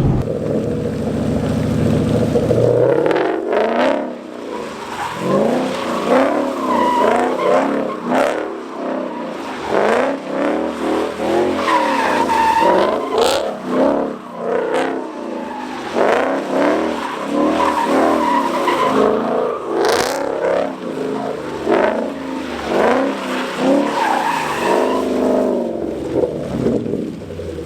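First-generation Coyote 5.0 V8 in a Mustang revving up and down hard while the car slides on a wet road, with tyres squealing and a few sharp snaps. The driver finds it acting funny in the wet.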